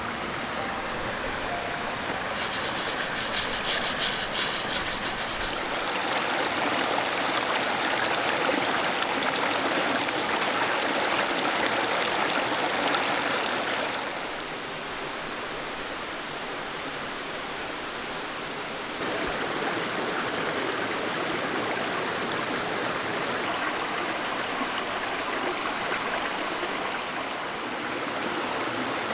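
Mountain stream water rushing steadily. Its level drops abruptly about halfway through and comes back up a few seconds later.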